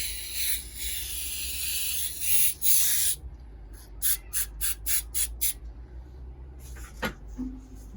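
Aerosol can of brake cleaner spraying. One long spray lasts about three seconds, then comes a quick run of about seven short squirts, and there is a single knock near the end.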